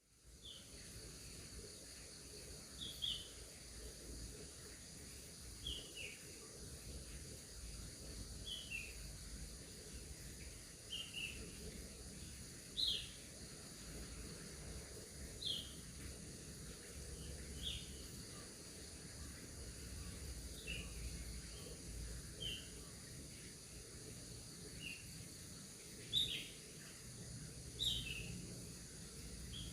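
A bird giving short, falling chirps every two to three seconds, over a steady high-pitched whine and a low rumble of outdoor background.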